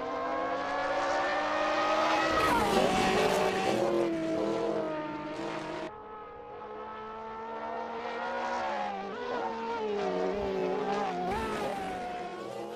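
Race car engine sound, a high-pitched running tone that wavers up and down in pitch, in two stretches with a sharp break about six seconds in.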